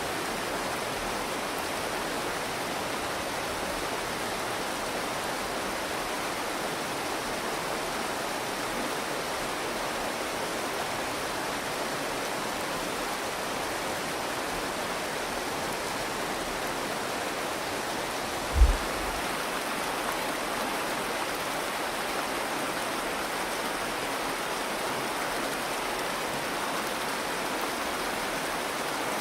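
Steady rushing of the Virgin River's flowing water, with one brief low thump about two-thirds of the way through.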